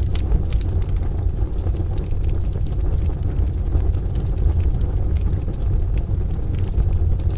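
Wood fire crackling in a stove, with scattered sharp pops and snaps, over a steady low rumble of rain and distant thunder.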